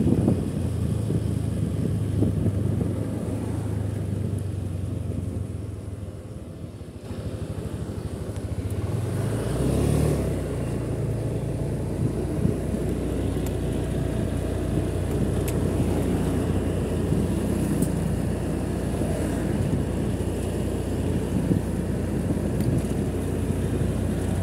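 Motorcycle engine running while riding, steady apart from easing off around five to seven seconds in. The pitch rises again near ten seconds as it speeds back up.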